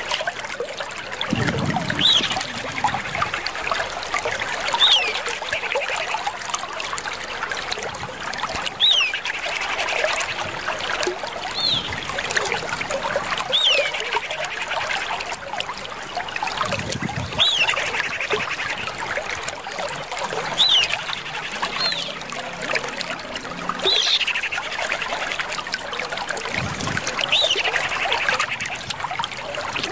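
Common iora calls: a short downward-sliding whistle repeated every two to three seconds over a continuous fast twittering trill.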